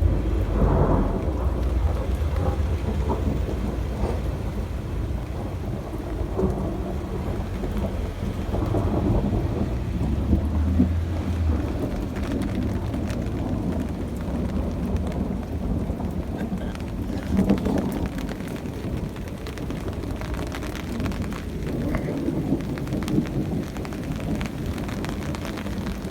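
Thunderstorm: heavy rain falling steadily, with thunder rumbling deep and long through the first half, loudest around ten seconds in, and fading out by about twelve seconds.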